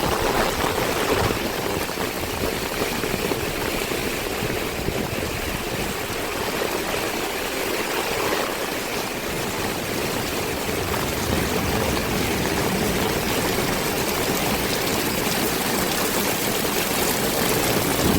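Heavy rain pouring down steadily, an even, dense hiss of water.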